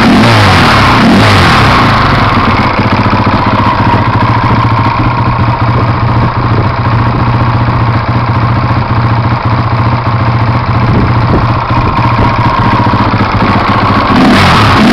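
Freshly rebuilt KTM motorcycle engine running: revved briefly at the start, then settling to a steady idle for most of the time, and revved again near the end.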